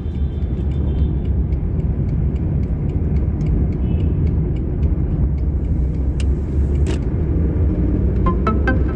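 Steady low rumble of a car on the road, with a brief hiss about seven seconds in.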